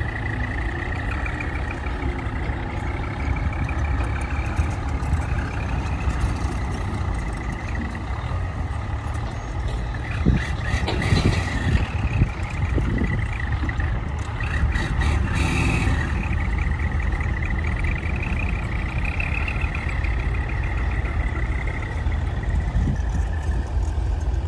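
Heavy diesel earthmoving machinery working with a steady low engine rumble and a wavering high whine. Two short hisses come about eleven and fifteen seconds in.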